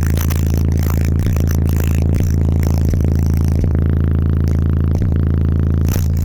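Bass-heavy rap song played loud through a car audio system with 15-inch subwoofers: a deep bass note held under a steady beat.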